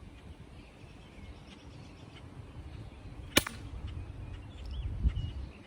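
A single sharp snap from a pump air rifle fired about midway through, with the pellet failing to leave the barrel. Faint bird chirps and a low wind rumble on the microphone run underneath.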